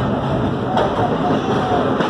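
Vintage subway train running along the line, a steady, loud mix of wheel-on-rail and car noise.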